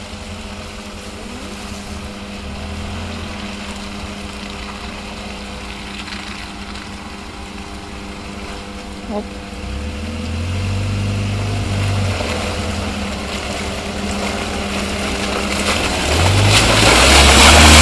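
Off-road vehicle's engine idling steadily, then revving harder from about ten seconds in as it drives into the mud, growing steadily louder. Near the end a loud rush of spraying mud and water covers it as the vehicle passes close.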